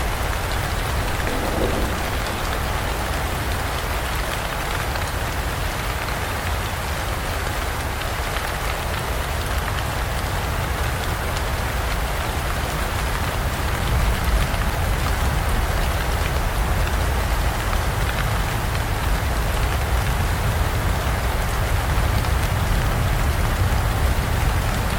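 Steady heavy rain falling, growing slightly louder about halfway through.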